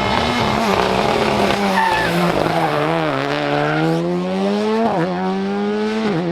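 Rally car engine revving hard with tyres squealing and skidding. The engine note sags a couple of seconds in, then climbs steadily with a quick dip near the end.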